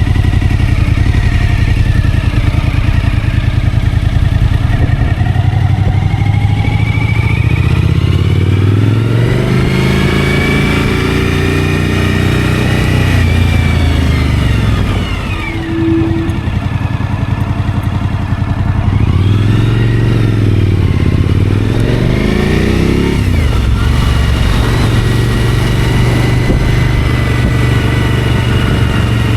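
Suzuki V-Strom motorcycle's V-twin engine running on the road. The revs rise and fall twice, about a third and two thirds of the way through, and hold steady in between, with wind and road noise over it.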